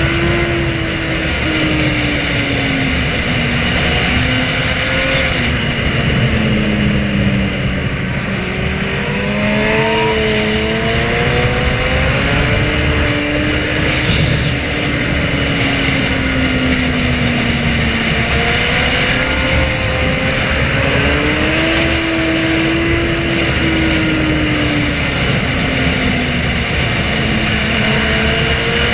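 Inline-four sportbike engines running under way, the engine pitch rising and falling repeatedly as the rider accelerates and eases off, over a steady rush of wind noise.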